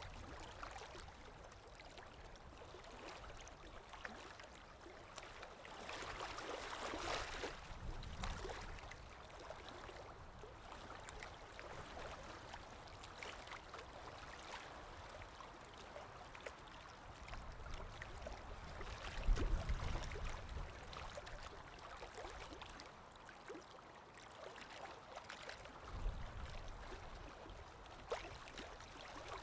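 A stream of water running and gurgling over stones, with a swell a few seconds in. Brief low rumbles come twice in the second half.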